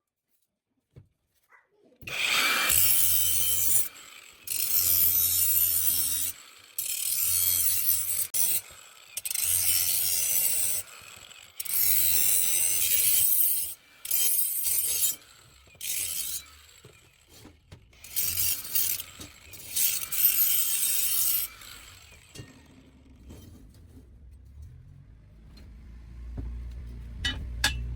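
A power tool run in repeated bursts of one to two seconds, about nine times, each with a low motor hum under a harsh high hiss, as if grinding or sanding. A quieter low rumble follows near the end.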